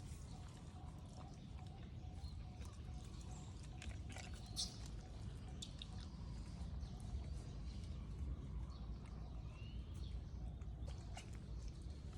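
Faint low rumble with scattered small clicks and taps, and one short rising squeak about nine seconds in.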